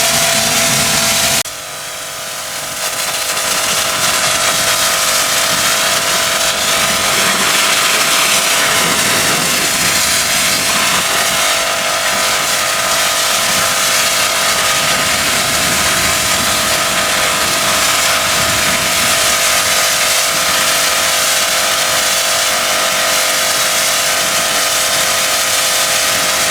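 A motor-driven cleaning machine running with a loud, steady hiss over a constant whine. It drops off briefly about a second and a half in, then builds back up and runs on evenly.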